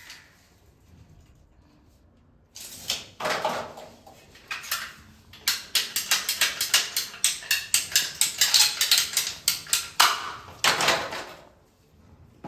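A length of CPVC water pipe being cut by hand, heard as a quick run of rasping strokes, about four or five a second, with a few slower strokes before and a longer one near the end.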